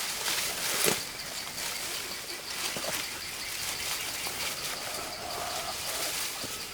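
Outdoor rural ambience: a steady hiss with a faint, steady high tone and some bird calls, broken by a single sharp knock about a second in.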